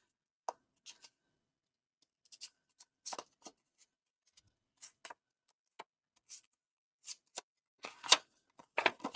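A small square of paper being folded in half and creased by hand: a scatter of short, crisp paper rustles and taps, the loudest about eight seconds in.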